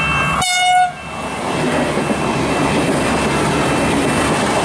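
VLocity diesel multiple-unit train passing close by: a steady, dense rush of engine and wheel-on-rail noise. A brief, loud high-pitched tone comes about half a second in, just before the passing noise takes over.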